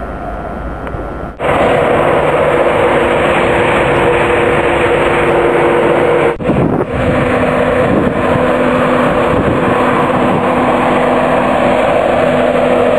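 Passenger train passing close alongside a station platform: a loud, steady noise of wheels on rail with a low steady hum. It comes in suddenly about a second in, after a quieter distant rumble.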